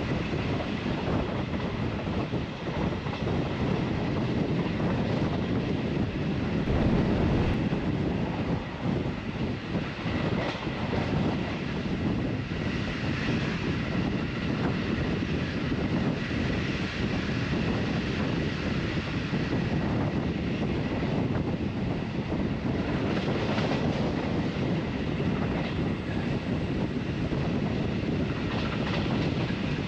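Metre-gauge electric train running on the rails, heard from on board as a steady rumble with a faint steady high whine.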